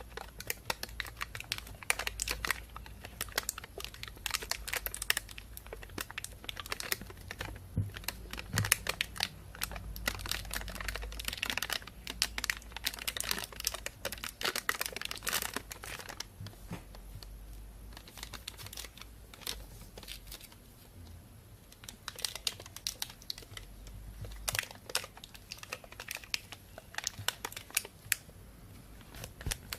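A thin plastic bag crinkling and rustling as it is handled, in dense, irregular crackles that thin out for a few seconds past the middle.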